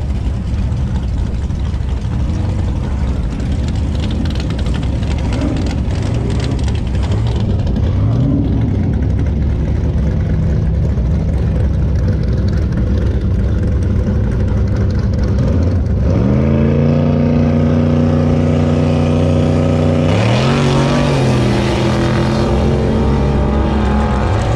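Drag car engine rumbling at the starting line with a few light throttle blips, then launching about two-thirds of the way through: the revs climb sharply and hold, with a gear change about four seconds later as it runs down the strip.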